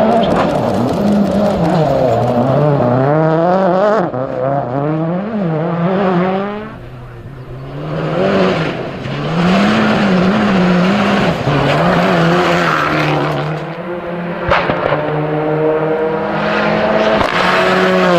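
Rally car engines revving hard through the gears, their pitch climbing and dropping again and again, with a sharp crack about three-quarters of the way through.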